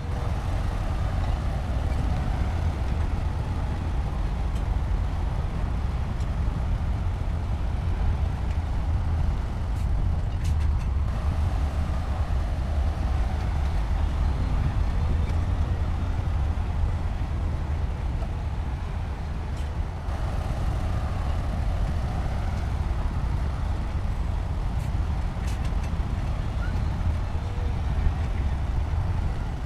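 Heavy diesel engine of a bulldozer running steadily: a continuous deep rumble, with abrupt small changes in level about 11 and 20 seconds in.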